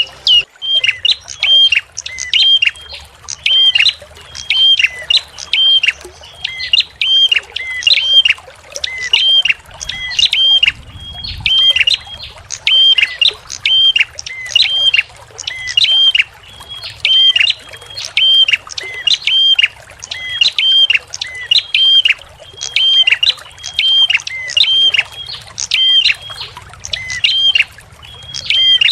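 A small songbird repeating one short, sharp call over and over, a little more than once a second.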